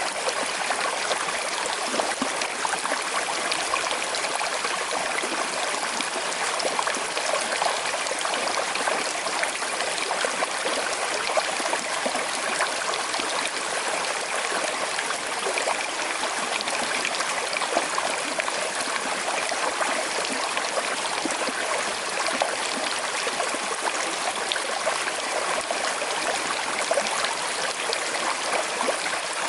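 Small river flowing with a slight current, a steady babbling and trickling of water over stones.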